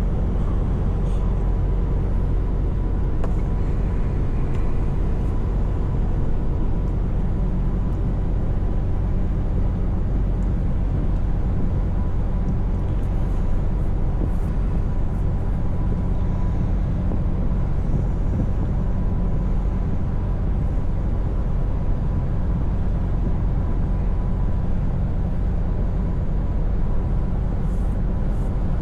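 Scania V8 truck engine droning steadily while the truck drives along at an even pace, with tyre and road noise underneath.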